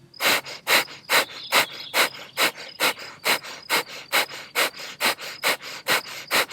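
Breath of fire (kapalabhati): rapid, forceful exhales pushed out through the nose, about two and a half a second in an even rhythm. Each is a short sharp puff of air, and the inhale between them happens passively.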